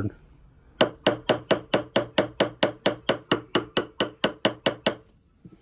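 Ball peen hammer tapping an 18 karat gold ring on a ring mandrel: about twenty light, evenly spaced metallic taps, about five a second, starting about a second in and stopping near the end. The taps are kept light because 18 karat gold is soft.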